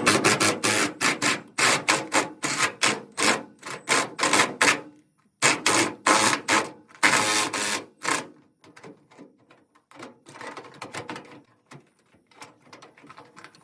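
Rapid rattling bursts from a tool working loose the truck's rusty bed-rail fasteners, about three bursts a second. The bursts are loud for the first eight seconds, with a short break in the middle, then turn fainter and more scattered.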